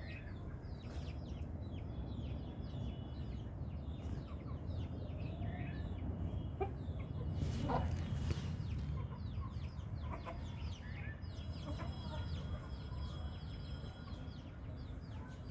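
Chickens clucking, with many quick, high chirps falling in pitch, over a steady low rumble.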